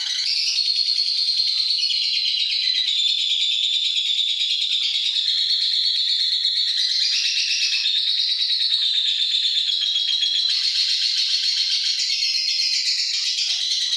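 Lovebird doing 'ngekek', its long, unbroken, rapid high chattering trill.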